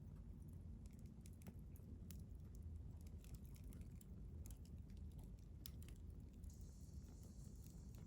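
Wood campfire burning, with faint scattered crackles and pops at irregular intervals. A faint hiss comes in near the end.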